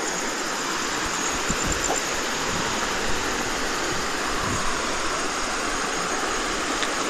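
Stream water rushing steadily in a steady hiss, with a faint low knock or two.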